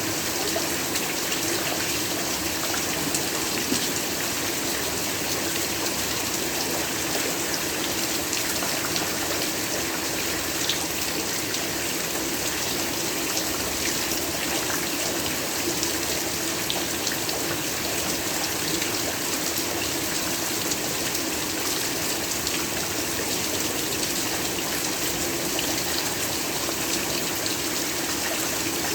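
Heavy rain falling steadily: an even hiss with many fine drop ticks.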